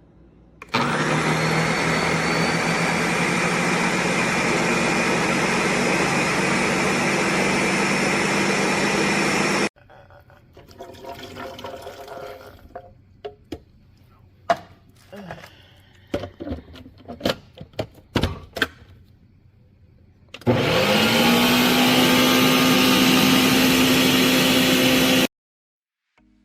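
Countertop blender motor running at full speed for about nine seconds, then cutting off sharply. Knocks and clicks follow, then the motor starts again, its pitch rising as it spins up, runs for about five seconds and cuts off abruptly.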